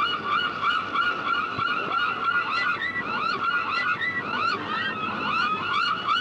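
A flock of gulls calling over one another: a dense, unbroken chorus of short, arching cries, many to the second, over a steady low rush.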